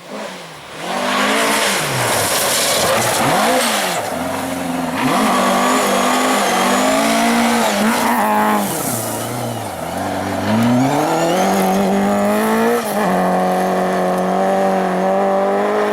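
Ford Escort rally car engine revving hard, its pitch climbing and dropping back again and again, then held steady at high revs for the last few seconds.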